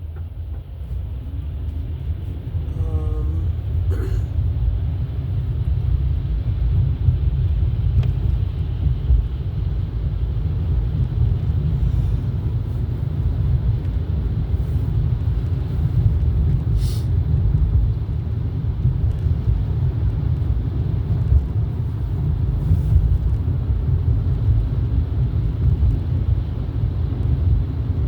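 Steady low rumble of a car's engine and tyres heard from inside the cabin while driving, building over the first few seconds and then holding even.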